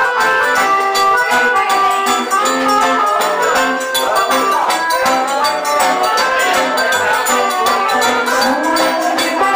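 Live forró music from a band with accordion, guitar, zabumba drum and hand percussion, playing a steady, even dance rhythm.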